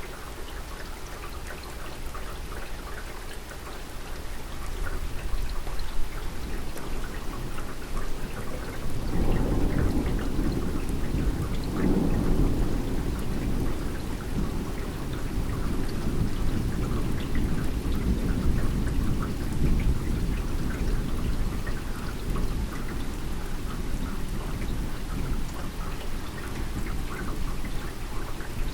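Steady rain falling during a thunderstorm. About nine seconds in a long, low roll of thunder builds, is loudest a few seconds later, and rumbles on at a lower level under the rain.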